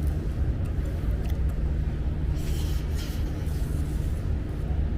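Steady low rumble, with a short rustling hiss about two and a half seconds in and a few faint clicks.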